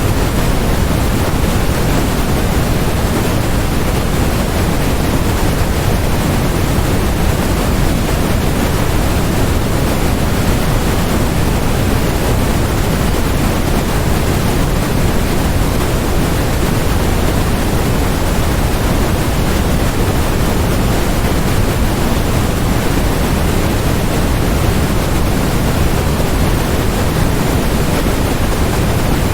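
Steady synthetic noise, sold as white noise: an even, unbroken hiss with most of its weight in the low end, unchanging throughout.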